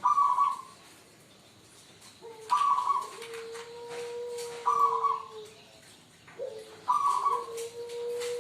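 Zebra dove (perkutut) cooing: four short rolling notes about every two seconds, two of them followed by a long, level, lower coo.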